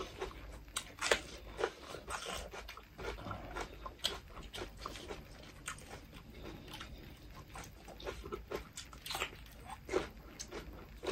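Close-miked eating sounds: crisp raw bell pepper crunched and chewed, with wet mouth clicks and smacking from chewing rice and meat. Irregular crunches and clicks, a louder crunch about a second in and another near the end.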